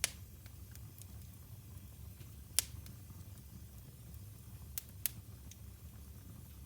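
Wood fire burning in a fireplace: a low steady rumble with sharp crackling pops. The loudest pops come right at the start and about two and a half seconds in, with two more close together near five seconds and fainter ticks between.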